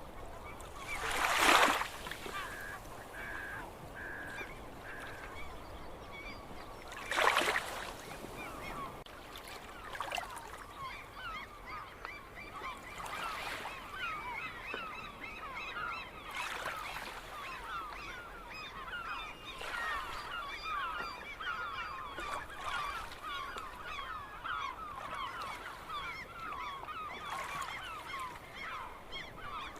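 A large flock of gulls calling, many short overlapping cries at once, growing denser after about ten seconds. Two loud rushing bursts cut through, about a second in and about seven seconds in, and between them one bird gives four short, evenly spaced notes.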